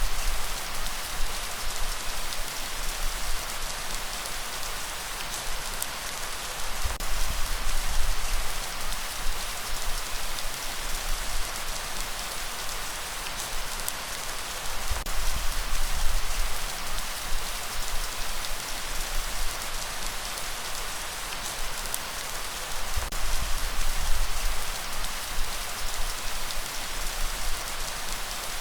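Steady rain falling, heard as an even hiss with fine patter of drops. A low rumble swells and fades every few seconds beneath it, like gusts of breeze on the microphone.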